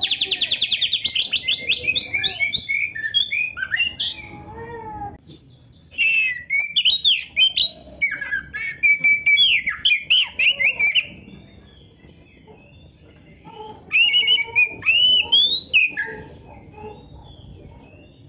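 Oriental magpie-robin (kacer) singing in full, varied song: a fast trill at the start, then bursts of whistled, warbling and scratchy phrases, with short lulls around 5 s and 12 s.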